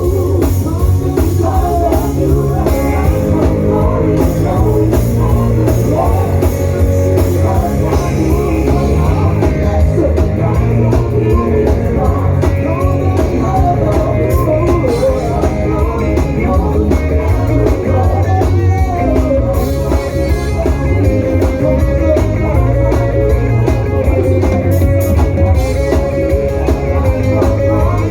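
Live gospel praise music from a full band: electric guitar, bass and drum kit playing an upbeat groove, with singing.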